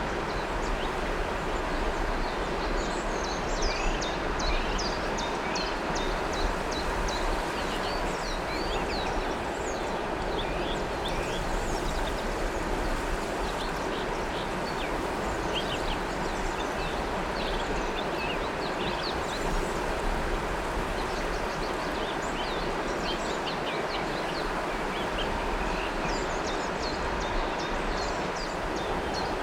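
River water flowing in a steady rush, with small birds chirping in quick, short calls over it.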